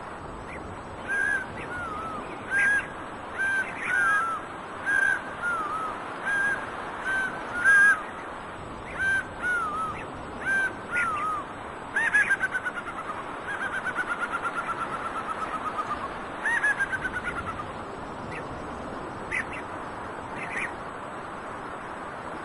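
A bird of prey calling: a string of short, clear calls that rise then drop in pitch, about one a second. About halfway through come three longer runs of quick notes, each falling in pitch.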